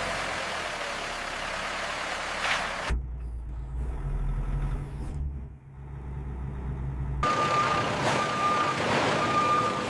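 Steady heavy machine or vehicle noise with a hiss and a thin beeping tone, which gives way for about four seconds in the middle to a low rumble and then returns.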